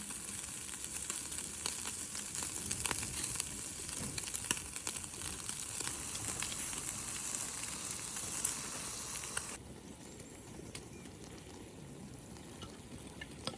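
Food sizzling and crackling in hot oil, with a dense hiss full of fine pops. About two-thirds of the way through it drops suddenly to a quieter hiss.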